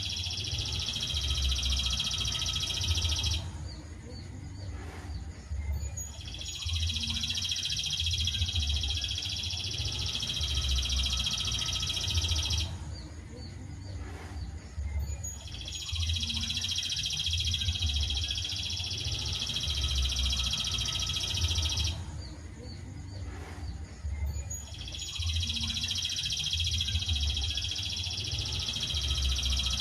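Looped masteran recording of a high, dense songbird trill. Each trill lasts about six seconds and stops for two or three seconds, and the same phrase repeats about every nine seconds.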